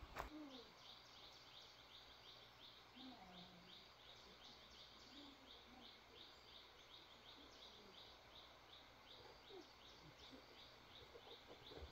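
Faint outdoor ambience with a steady series of short, high chirps, about three or four a second, and a few faint low calls.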